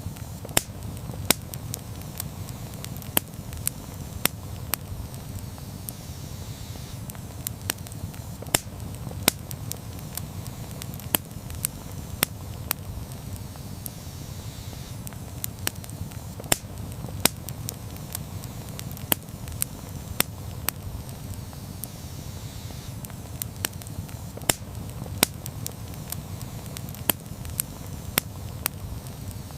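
Wood campfire burning, with a steady low rush of flames and irregular sharp crackles and pops, a few each second.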